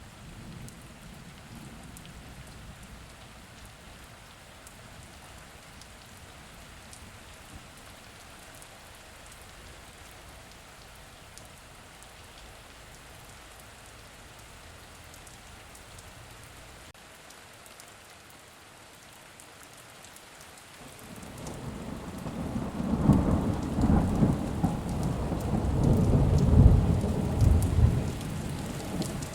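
Steady rain falling, then about three-quarters of the way through a loud, low rumble of thunder builds and rolls for several seconds before easing off.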